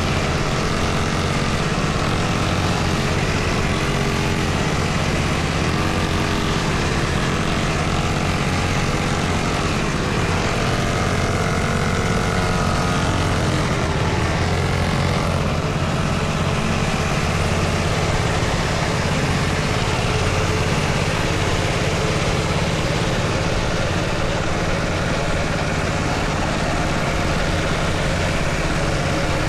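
Dirt bike engine running, its pitch rising and falling with the throttle over roughly the first half, over a steady low rumble.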